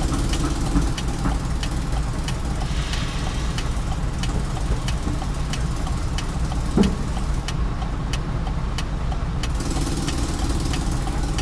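Mercedes truck's six-cylinder engine idling steadily with a regular light clicking, running with cylinder number 4 dead, which is why the truck has no pick-up.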